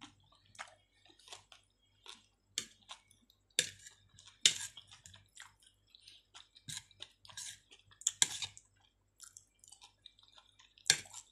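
Close-up chewing and wet mouth clicks of someone eating chicken and soft potato in a coconut-milk sauce: a steady scatter of short clicks with a few louder ones.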